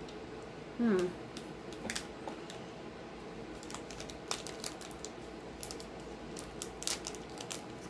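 Sharp, scattered crackles and snaps of a Kit Kat bar's plastic wrapper being opened and handled, growing busier near the end. A short pitched sound, like a brief vocal 'mm', comes about a second in.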